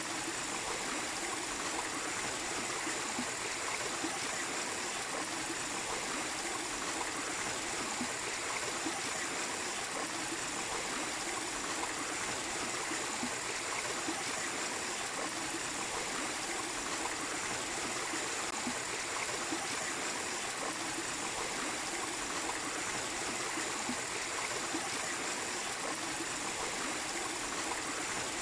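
Mini waterfall: a steady, even rush of falling water.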